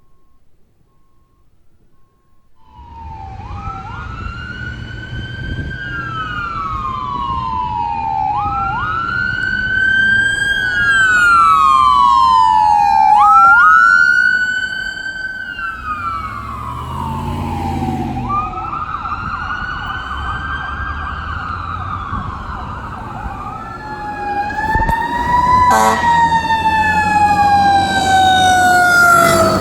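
Emergency vehicle sirens wailing as they pass, over a low engine rumble. Each wail rises quickly and falls slowly, repeating about every five seconds and loudest a third of the way in. Near the end a second siren with a longer sweep overlaps it, and there is a sharp click.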